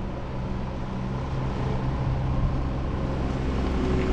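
Traffic noise: a motor vehicle's engine running steadily nearby, getting louder near the end, over road and wind noise.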